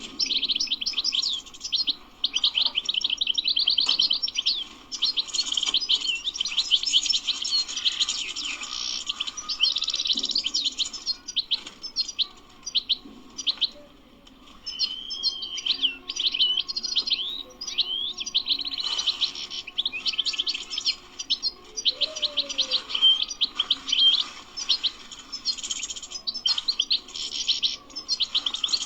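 European goldfinch singing: a long, fast twittering song of rapid trills and chirps, broken by a short pause about halfway through.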